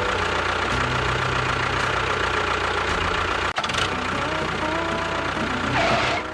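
Vehicle engine running steadily, with a rapid low knocking rhythm.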